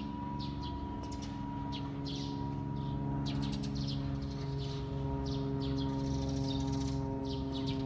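Small birds chirping in short repeated calls over a steady droning hum made of several held tones.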